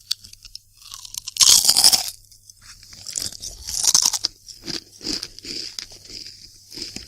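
Crisps bitten and chewed close to the microphone: one loud crunch about one and a half seconds in, then a run of shorter crunching chews.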